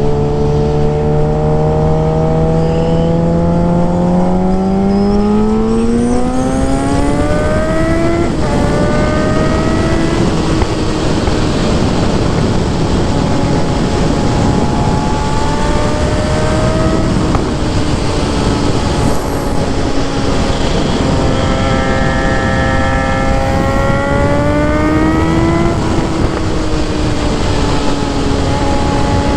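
Suzuki GSX-R750 inline-four engine and exhaust under way, rising in pitch as it accelerates for the first eight seconds, then dropping sharply at a gear change. It runs steadily, climbs again later on and drops with another shift, over a steady rush of wind noise.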